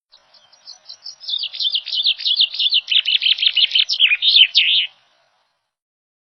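A songbird singing a quick, even run of short notes, each falling in pitch. The song starts faint, grows louder, and breaks off abruptly about five seconds in.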